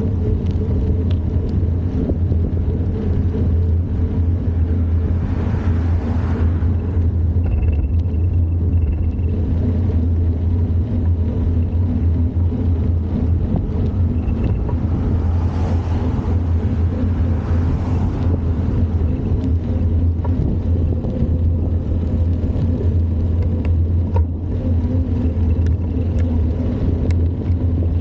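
Steady low rumble of a bicycle ride recorded on the bike: wind buffeting the microphone and tyres rolling over the trail, with no break in it.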